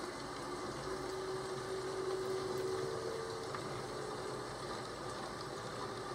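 Steady rain-and-thunderstorm ambience: an even hiss of rain with a low, rumbling undertone that swells slightly about a second in and eases off after about three seconds.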